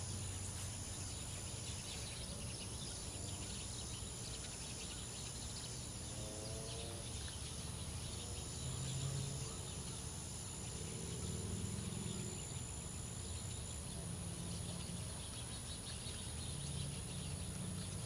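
Outdoor natural ambience: a steady low rumble with faint bird chirps and insect sounds.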